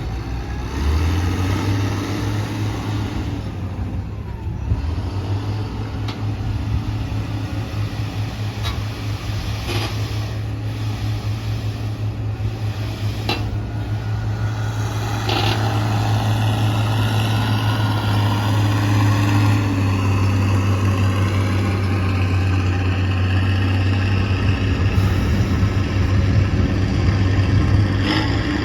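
Diesel engine of a Tata Prima dump truck running steadily, its note stepping up about a second in and holding, with a few brief clicks over it.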